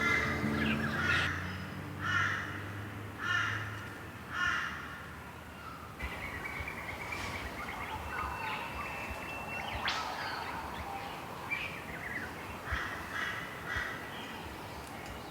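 Birds calling: a run of short calls about a second apart in the first few seconds, then a mix of chirps with one held note and a quick upward sweep.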